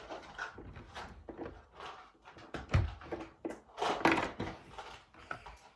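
Plastic Lego pieces and minifigures being handled on a tabletop: scattered clicks and light knocks, with two louder knocks about three and four seconds in.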